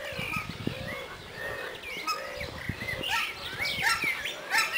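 Several birds chirping and calling over one another, short high chirps mixed with a low call repeated every half second or so.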